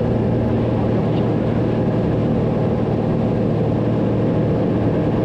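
Steady engine and propeller drone of a Cessna 182 heard inside the cockpit, with a constant low hum under an even rushing noise.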